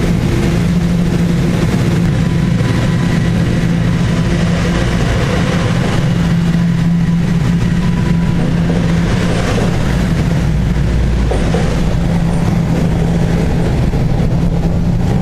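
Toronto subway train running through the station, a loud steady noise with a constant low hum that holds throughout.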